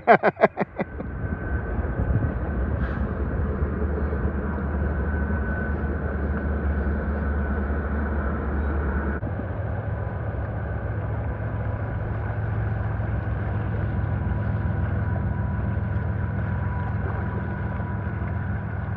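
A few sharp knocks in the first second, then a steady low rushing noise of river water and wind on the microphone while kayaking, which changes abruptly in tone about nine seconds in.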